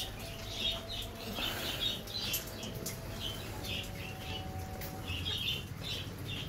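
Birds in an aviary chirping: short high-pitched chirps repeating a few times a second.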